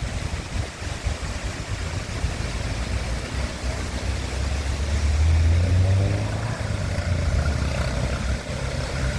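Steady rushing noise of a waterfall, with a low rumble that swells about halfway through and eases again.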